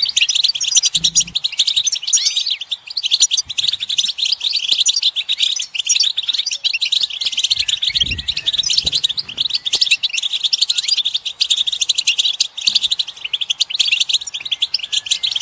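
European goldfinches twittering in a dense group chorus: rapid, overlapping high chattering calls and trills without a pause. These are the mating and readiness calls played to stir a silent male goldfinch into song.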